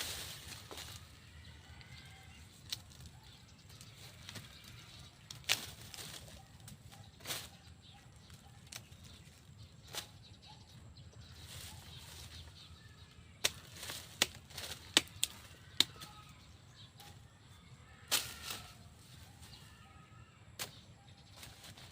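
Irregular sharp clicks and knocks, bunched together about two-thirds of the way in, over a steady low hum.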